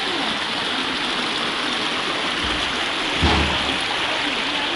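Mountain stream rushing over rocks: a steady, loud hiss of water. A single low thump sounds about three seconds in.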